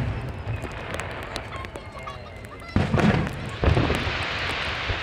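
Aerial firework shells bursting: two deep booms close together about three seconds in, followed by a sustained crackling hiss from the bursts.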